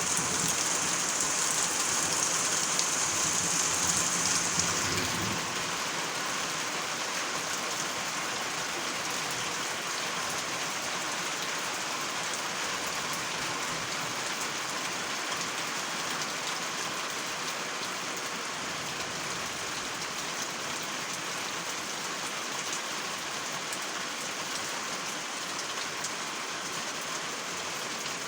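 Steady rain falling and pattering on surfaces, a dense even hiss that is a little louder and brighter for the first five seconds or so before settling.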